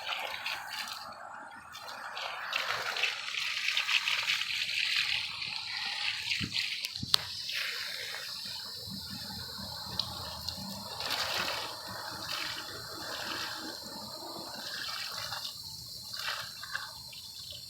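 Garden hose spraying water at low pressure into the fins of a central air conditioner's outdoor condenser coil, the water splashing and running off as the dirt is rinsed out. The spray hiss swells and fades as the stream moves, with a sharp click about seven seconds in.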